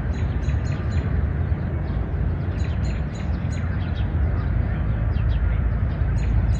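Small birds chirping in short, high-pitched series over a steady low background rumble. The chirps come in groups in the first second, again about two and a half to three and a half seconds in, and near the end.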